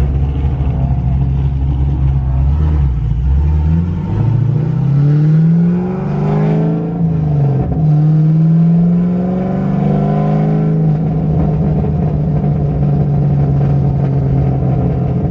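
Car engine revving: the pitch climbs about three and a half seconds in, drops and rises again around the middle, then is held at high revs for the rest.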